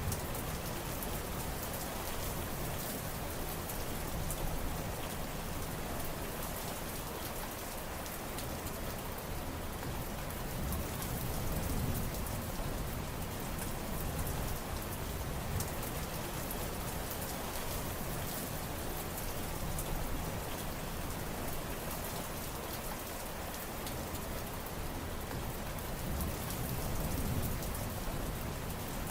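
Steady heavy rain, a dense hiss of drops pattering on surfaces, with the low end swelling and easing every few seconds.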